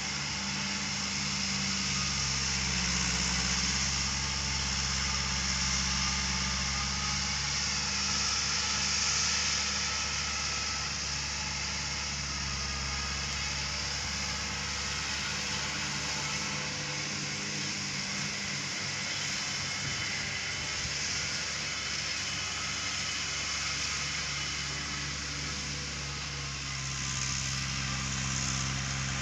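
Tractor engine running steadily as it mows, its pitch shifting slightly now and then, with a constant high hiss behind it.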